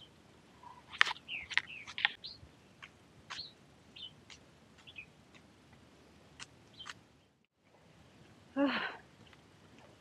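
Small birds chirping: scattered short sharp chirps and clicks, busiest between one and two seconds in, then a brief louder call near the end.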